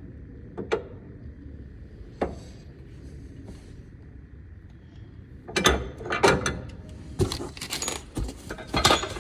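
Metal tools and parts clinking and rattling as they are handled: two single clicks, then a busier run of jangling clinks over the last few seconds.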